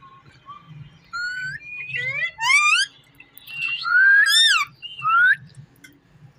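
Ringneck parakeet making a run of short, rising, whistle-like calls, starting about a second in and ending before the close.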